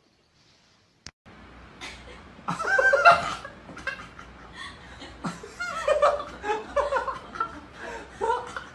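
A person laughing in repeated short bursts, after a brief silence broken by a single click about a second in.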